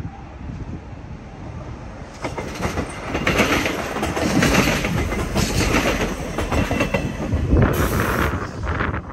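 SA133 diesel railcar passing close by, growing louder about two seconds in, its wheels clicking over the rail joints.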